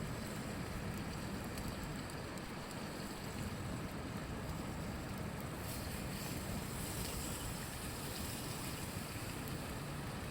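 Steady rushing of river water, even and unbroken, with a deep low rumble.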